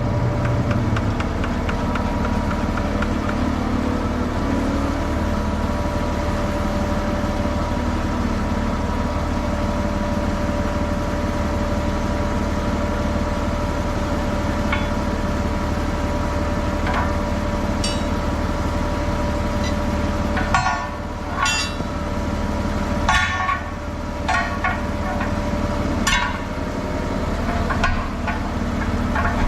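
A steady engine-driven drone with a constant hum, typical of a tire service truck running to power its manipulator. From about two-thirds of the way in, a run of sharp knocks, several a second or so apart, comes over it.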